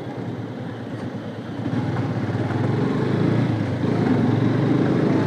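Yamaha FZS V3 motorcycle's single-cylinder engine running while ridden, growing louder from about two seconds in.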